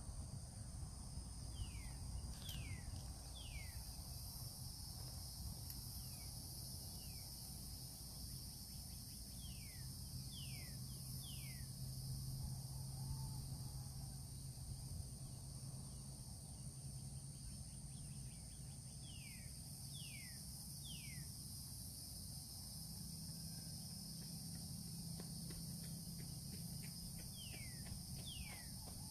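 A steady, high-pitched insect chorus of crickets or katydids, with a bird calling short falling whistles in groups of two or three every several seconds. A low outdoor rumble lies underneath.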